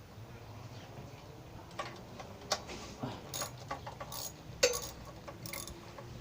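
Hand tools and metal engine parts being handled and set down: a scatter of sharp clicks and clinks, including ratchet-like clicking, with one louder clink a little past the middle.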